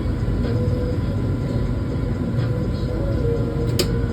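Steady low rumble and hum of boiler-room machinery, with one sharp click near the end.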